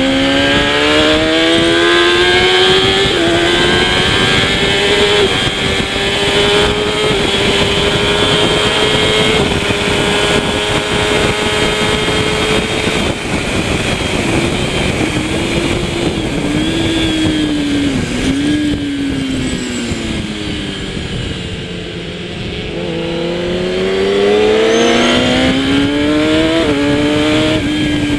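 Kawasaki ZX-10R superbike's inline-four engine at racing speed. It pulls hard up through the gears and holds high revs, then falls through several downshifts with brief blips as the bike slows for a corner. The revs are lowest about three-quarters of the way through, then it accelerates again with quick upshifts near the end.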